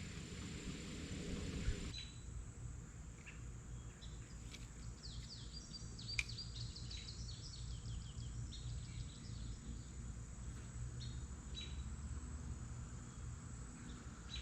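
Small birds chirping in a quick run of short high notes a few seconds in, over a steady low rumble; a hiss at the start cuts off about two seconds in, and there is a single sharp click in the middle.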